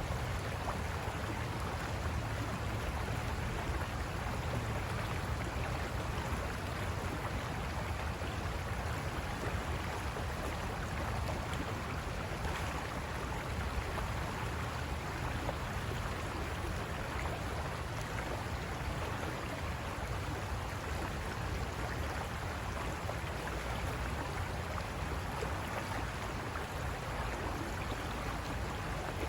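River water rushing over rocks: a steady, unbroken rush with a deep low rumble underneath.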